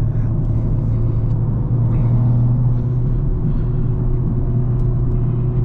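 BMW M340i's B58 inline-six with an upgraded big turbo, heard from inside the cabin as a steady low engine drone mixed with road noise at an even cruise.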